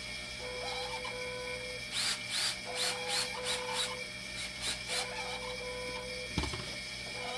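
Fresenius 2008K2 hemodialysis machine running, its pumps and valves cycling with a tone that switches on and off about every two seconds. A quick run of sharp chirp-like clicks comes in the middle, and a single thump follows near the end.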